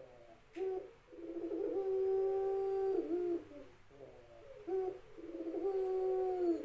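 Puter pelung, a domestic Barbary dove kept for its long call, cooing: twice a short note followed by a long, level coo that dips in pitch at the end.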